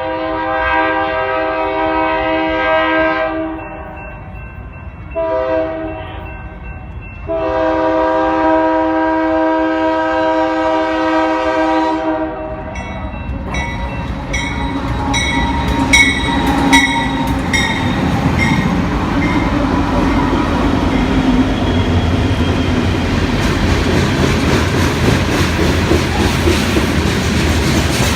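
Union Pacific diesel locomotive's multi-chime air horn sounding a blast, a short blast, then a long blast. The locomotives then pass, and a string of two-bay covered hopper cars rolls by with rumbling and regular wheel clicks over the rail joints.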